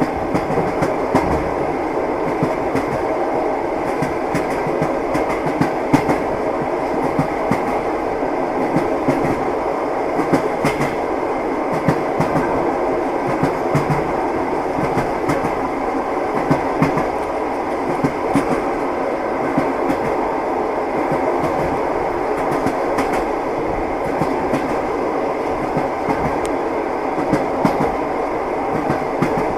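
Moving train: wheels clacking over the rail joints, with a steady rumble from the train running underneath.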